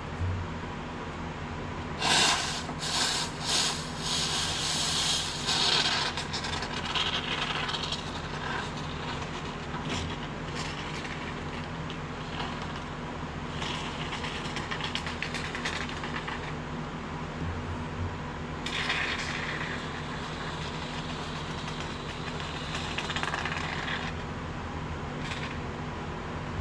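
Can of expanding spray foam hissing and sputtering as foam is dispensed, in three main spells, over a steady low hum.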